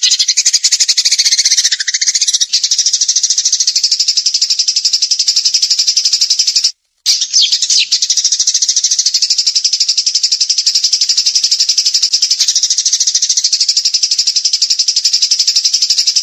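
A small cage songbird giving a rapid-fire trill ('tembakan'). The very fast, high notes are repeated in a continuous stream, with a brief break about seven seconds in.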